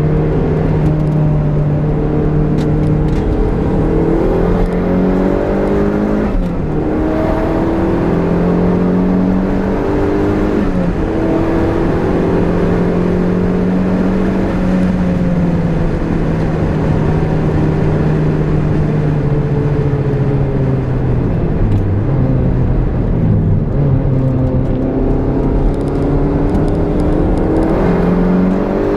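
Turbocharged Toyota MR-S (MR2 Spyder) four-cylinder engine heard from inside the cabin on track, revving up through the gears. Its pitch climbs and drops sharply several times at gear changes, falls away slowly once mid-way as the car slows, then climbs again, over constant road and wind noise.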